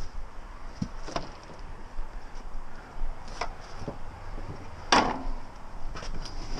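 A few separate knocks and clunks of handling between cuts, the loudest about five seconds in; the saw is not running.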